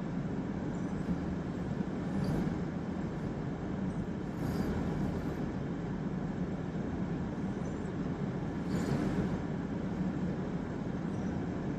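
Steady road and engine noise of a car being driven, heard inside the cabin, with three brief hissing swells, about 2, 4.5 and 9 seconds in, over the low rumble.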